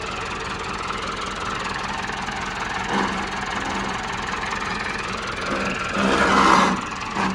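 Massey Ferguson 385 tractor's diesel engine running steadily under load, driving a mustard thresher. A brief louder pitched sound comes about three seconds in, and a stronger one about six seconds in.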